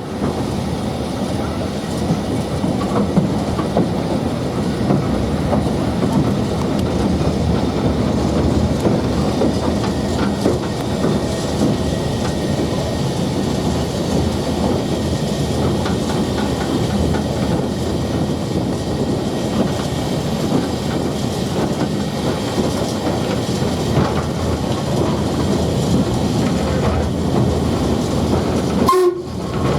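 A train running on the line: a continuous rumble with wheels clattering over the rails.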